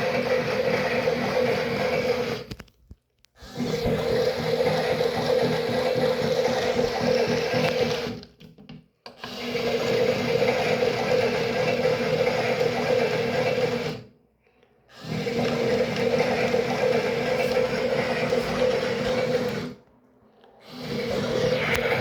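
Toy washing machine's small electric motor running, stopping briefly four times in a regular rhythm, about every six seconds, like a wash cycle's tumble-and-pause.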